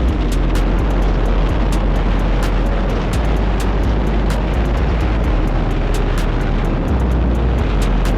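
Dirt bike running under way, its engine mixed with heavy wind rumble and crackle on a helmet-mounted camera microphone.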